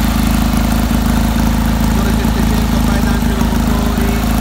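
Tuned 700cc Fiat 500/126 air-cooled two-cylinder engine idling steadily on a test stand, with an open stainless exhaust.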